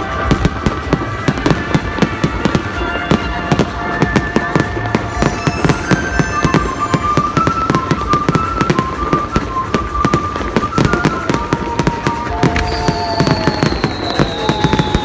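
Fireworks display: a dense, continuous run of bangs and crackling bursts, with whistling tones over them and a long falling whistle near the end.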